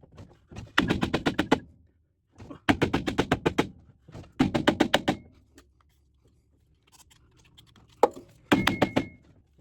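Bursts of rapid metal-on-metal clattering, four of them, each lasting about a second: a John Deere 430 baler's drive shaft being worked by hand and slid free of the gearbox drive, coming loose without oil or hammering.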